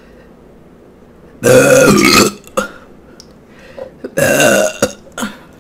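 A woman burping twice, loud and close to the microphone, each burp under a second long, with small wet mouth clicks between and after them.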